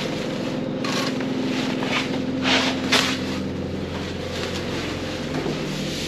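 A vehicle engine running steadily, with a few short rustling noises over it about one, two and a half and three seconds in.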